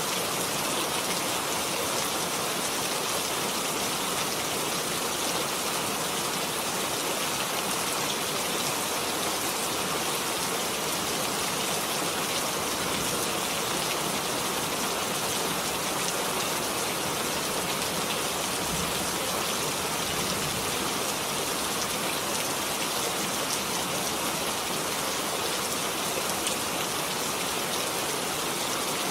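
Steady rain falling, a dense even hiss of many drops with no let-up.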